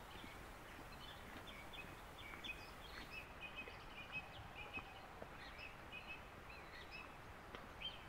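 Small songbirds chirping and singing faintly, many short quick notes overlapping, over a low steady rumble of outdoor background noise.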